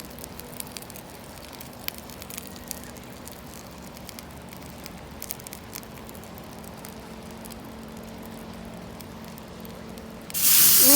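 Wood campfire crackling with scattered small pops and snaps. Near the end a loud hiss cuts in abruptly.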